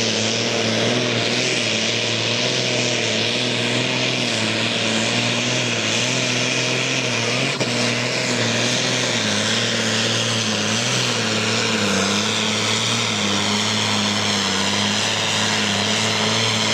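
Turbocharged diesel pulling tractor running flat out under heavy load as it drags the brake sled, a loud steady drone whose pitch wavers slightly.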